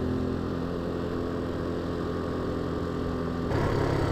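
Motorbike engine running steadily while riding. About three and a half seconds in, the sound changes abruptly and gets a little louder.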